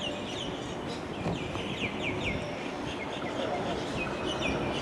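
Small birds chirping, a quick run of many short high notes, over a steady low rumble of station background noise.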